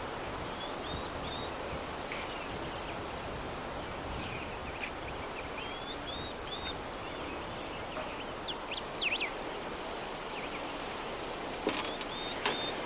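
Steady soft breeze noise with small birds chirping here and there in short high calls. There is a quick flurry of sweeping chirps a little past the middle, and two short sharp clicks near the end.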